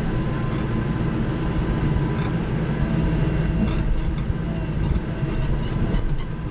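Kubota L3940 compact tractor's diesel engine running steadily under load, heard from inside the closed cab, with a few faint clicks about two to four seconds in.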